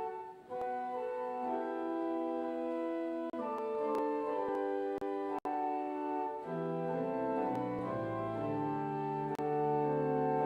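Church organ playing slow sustained chords that change every second or so, with low bass notes coming in about six and a half seconds in.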